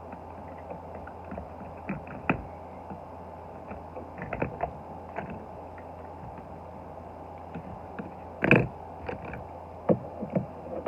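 Scattered light clicks and knocks of small diecast toy cars and their small parts being handled and set in place. The loudest knock comes about eight and a half seconds in.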